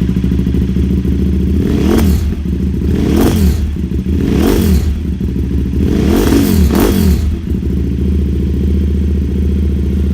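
2008 KTM 990 Super Duke R's LC8 V-twin engine running through a full Akrapovic exhaust, just after a start-up, idling and revved in short throttle blips about four times in the middle before settling back to idle.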